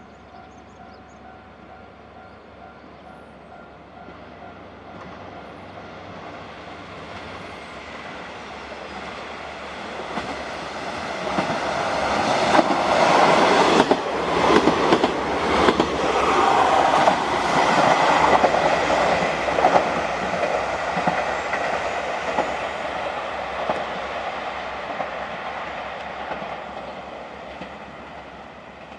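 A diesel rapid train on the Tsuyama Line running through the station without stopping: its sound grows over several seconds, peaks with the clickety-clack of wheels over rail joints as it passes, then fades as it moves away.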